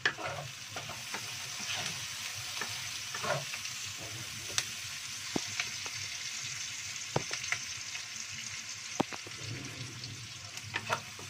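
Sliced shallots and garlic sizzling in hot oil in a nonstick wok, stirred with a wooden spatula that now and then gives a sharp tap or scrape against the pan. The shallots are nearly fragrant.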